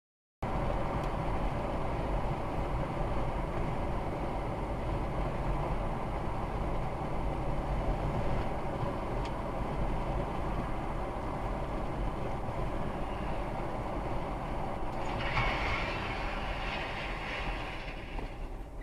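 Steady road and engine noise from a moving vehicle, picked up by a dashcam microphone. It starts abruptly about half a second in, and a brighter hiss joins for a few seconds near the end.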